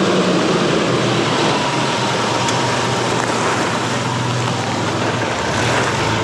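Off-road 4x4 truck's engine running under a loud, steady rush of tyre and wind noise.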